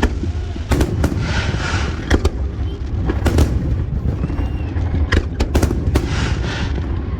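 Fireworks display: a string of sharp bangs from bursting aerial shells, several in quick succession around five to six seconds in, with crackling sizzle trailing some of the bursts.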